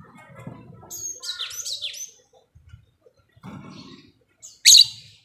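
Lovebird calling: a quick run of high, rapidly rising and falling chirps about a second in, then one loud, shrill call near the end.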